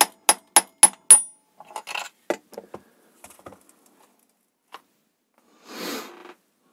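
Light, quick hammer taps on a copper bar held against a chainsaw's thin aluminium crankcase wall to straighten it, about four taps a second with a metallic ring, five of them, stopping just over a second in. Small metal clinks and clatter follow.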